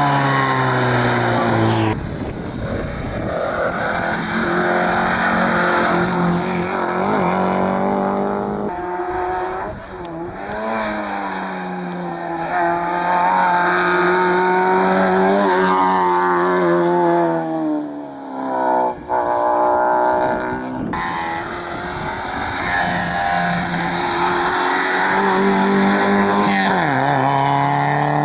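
Rally car engines revving hard on a hillclimb stage, the engine note climbing and dropping as gears change. Abrupt breaks in the sound mark changes from one car to another.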